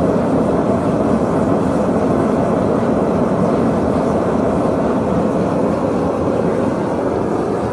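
Forge running with a steady, even rushing noise while the metal heats for a forge weld.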